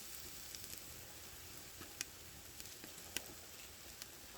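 Marinated pork belly sizzling on a grill over a wood fire: a faint, steady hiss with scattered sharp pops, the two loudest about two and three seconds in.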